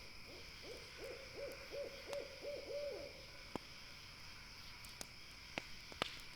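An owl hooting a quick, even series of about eight short hoots lasting about three seconds. After it, campfire wood crackles and pops a few times, the last pop the loudest.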